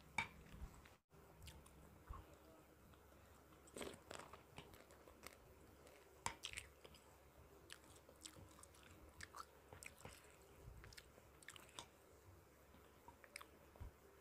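Quiet, close-miked chewing and mouth sounds of someone eating, with irregular sharp clicks and taps from the mouth and from a wooden spoon scraping and knocking on a ceramic plate.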